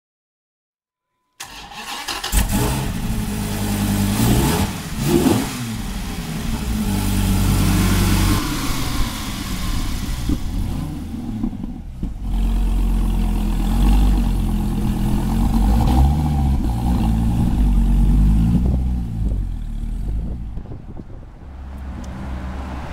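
Dodge Viper SRT-10's 8.4-litre V10 engine, coming in suddenly about a second and a half in, then revved with several rises and falls in pitch. It settles into low-speed running with the pitch rising and falling as the car is driven.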